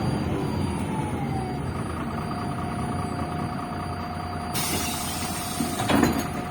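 Inside a MAZ-105 articulated city bus slowing down: a drivetrain whine falls in pitch and then holds steady over the running rumble, a burst of compressed-air hiss starts about four and a half seconds in, and a sharp knock comes about a second later.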